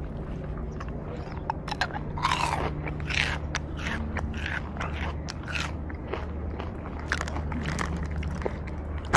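Crunching and chewing of a crunchy packaged snack close to the microphone, in irregular crunches.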